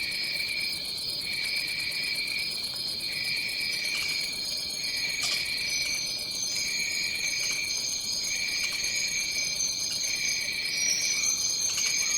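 Rainforest insect chorus: a steady high trilling over a lower chirring that pulses on and off in a regular rhythm, breaking roughly every second and a half. A thinner, higher tone joins about halfway through.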